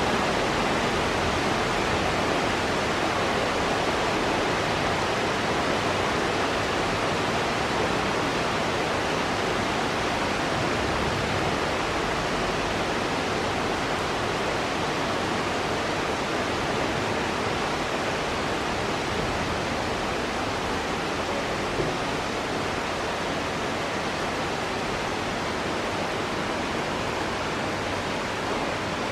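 Heavy rainstorm: rain falling steadily in a dense, even hiss.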